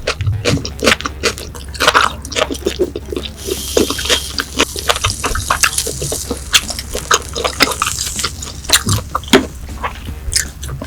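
Close-miked wet chewing and mouth clicks from eating grilled Korean beef, with a high hiss running from about three and a half to eight seconds in.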